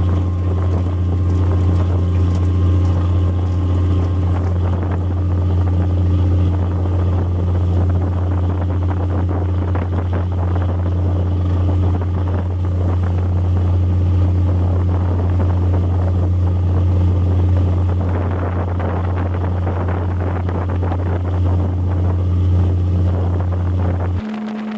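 A fishing boat's engine running steadily with a deep, even hum, heard on board. Near the end it cuts abruptly to a different, higher steady hum.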